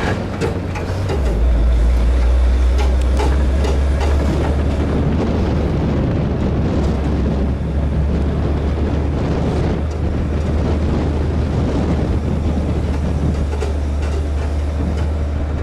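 1982 Chevy C30 truck's 5.7-litre small-block V8 running under way, a steady low drone that rises and gets louder about a second in, over steady road and wind noise.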